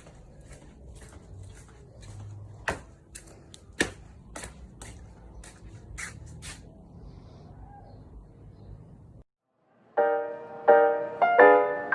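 Irregular light clicks and taps, two of them sharper, over a low steady rumble. They cut off suddenly about nine seconds in, and soft piano music starts a moment later.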